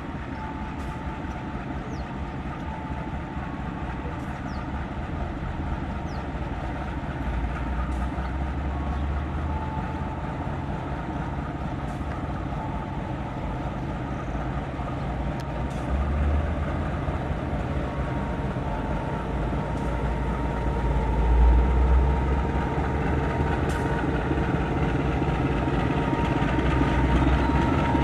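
Diesel-hauled passenger train running by, a steady rumble with a faint held tone, growing louder toward the end.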